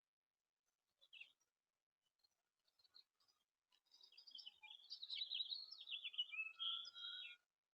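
Backyard songbird: a short chirp about a second in, then a long, fast, jumbled warbling song starting about four seconds in that stops abruptly shortly before the end.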